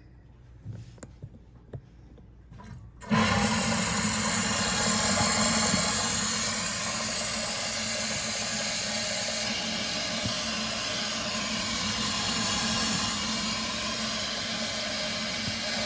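Boiler water-gauge glass being blown down: about three seconds in a valve opens and water and steam rush out of the drain with a loud, steady hiss, which cuts off near the end. The blowdown flushes out the mud and scale clogging the lower end of the gauge glass, which made the water level read too high.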